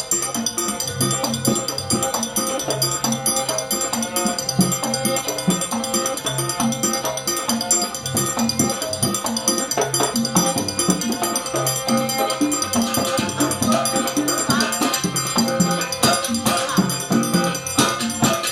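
Live Gandrung music from Banyuwangi, East Java, played by a traditional ensemble: a busy, continuous rhythm of drums and jingling, rattling percussion under sustained pitched instrument lines.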